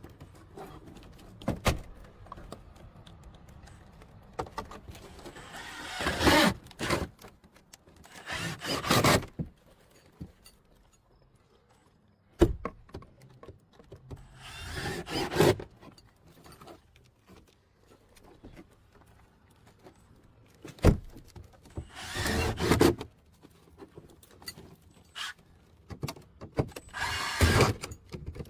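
Construction work: several noisy scraping or rustling bursts, each about a second long, with a couple of sharp knocks between them.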